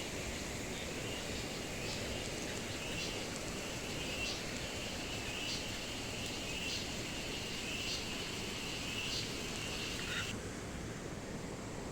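Forest ambience: a steady high-pitched insect drone with a short accent repeating about once a second, over an even rushing background. The insect sound cuts off suddenly near the end, leaving only the rushing.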